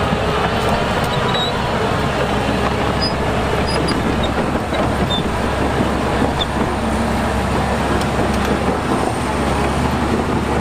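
Heavy diesel earthmoving machinery running steadily under load.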